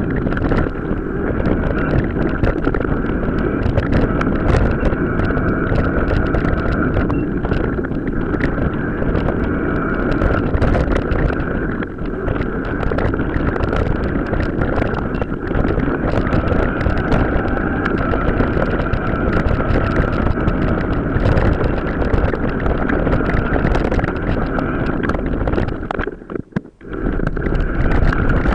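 Wind rushing over the microphone of a mountain bike ridden off road, with a constant clatter of knocks and rattles from the bike over rough ground and a steady high hum running underneath. The noise drops away briefly near the end.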